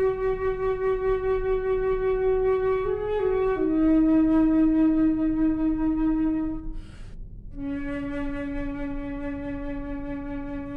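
Concert flute playing slow, long held notes with vibrato, the pitch stepping down from one note to the next. About seven seconds in there is a short break for a breath, then a lower, softer note is held to the end.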